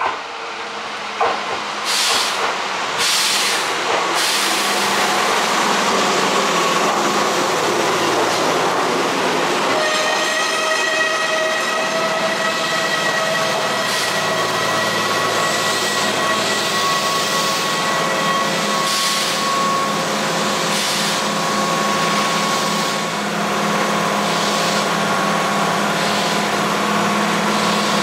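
Keihan Railway electric train running at a station, with a steady, loud rumble of wheels on rail and two sharp short sounds in the first second or so. From about ten seconds in, a steady whine of several tones from the train's electrical equipment rides over the rumble.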